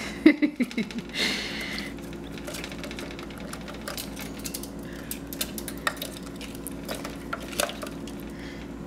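A budgie climbing into and moving about in a shallow water dish: a short clatter in the first second, then scattered light clinks and taps against the dish over a steady low hum.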